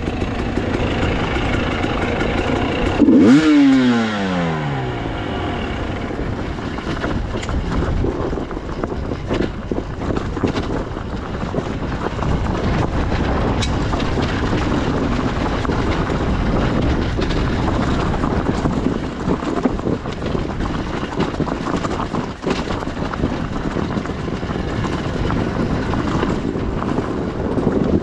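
Enduro motorcycle engine running while riding a rough trail, mixed with wind and rattle. About three seconds in it gets loud, then the engine note drops steeply.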